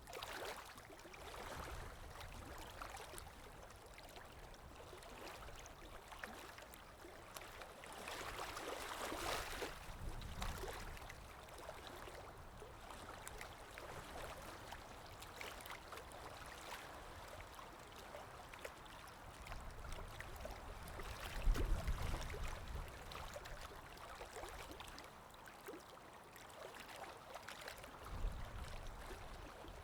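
Underwater ambience: a steady wash of moving water heard from below the surface, with slow swells and low surges, the strongest about two-thirds of the way through.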